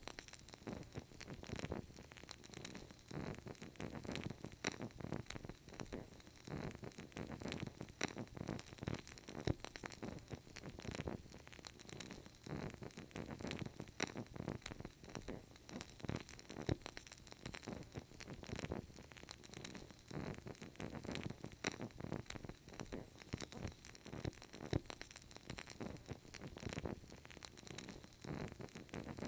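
Burning candle crackling: a continuous, uneven stream of small pops and crackles, with an occasional louder pop.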